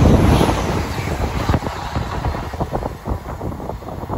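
Great Western Railway Intercity Express Train passing at speed and moving away, its rushing rumble loudest at first and fading steadily. Sharp irregular clicks come through from about a second and a half in.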